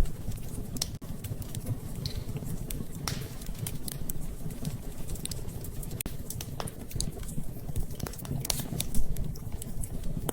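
Wood fire crackling in a fireplace: irregular sharp pops and snaps over a steady low rumble, with a louder pop near the end.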